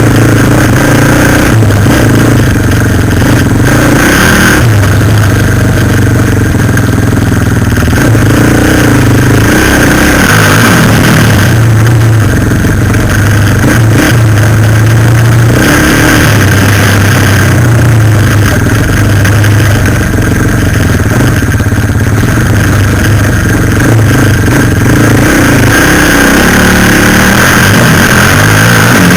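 Suzuki LTZ 400 quad bike's single-cylinder four-stroke engine running under way, very loud at close range, its revs rising and falling several times with the throttle.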